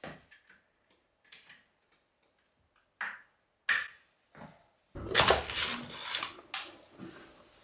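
A bicycle being mounted in a repair stand's clamp: a few separate knocks and clicks, then about two and a half seconds of louder metallic rattling and clanking near the end.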